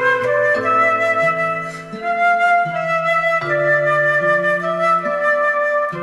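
Muramatsu flute playing a slow melody of held notes, over lower sustained accompaniment notes that change pitch in steps: an original piece for flute.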